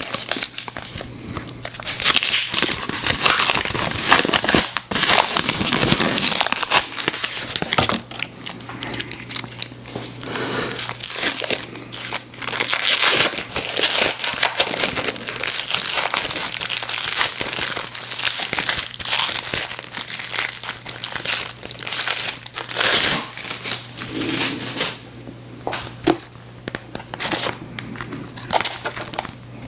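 Candy wrappers crinkling and tearing as they are handled and opened, in close, irregular crackles that come in louder and quieter spells over a faint steady low hum.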